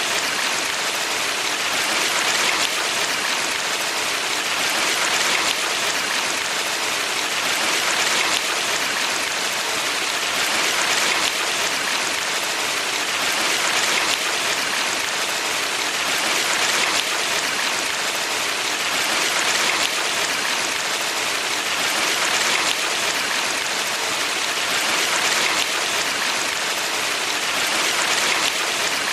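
Valley stream water running steadily, a dense even rush that swells gently about every three seconds.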